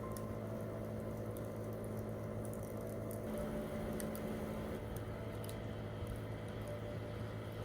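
Wood campfire crackling, with scattered small sharp pops over a steady low background tone.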